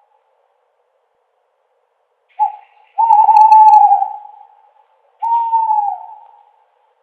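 Owl hooting: after a pause, a short hoot about two and a half seconds in, then two long drawn-out hoots, each dropping a little in pitch as it fades.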